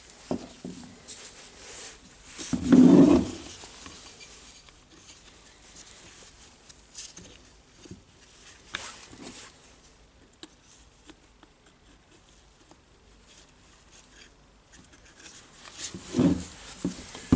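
Small clicks and knocks of plastic tool housing parts being handled and fitted together during reassembly of a cordless rotary hammer, with one loud, short, muffled sound about three seconds in.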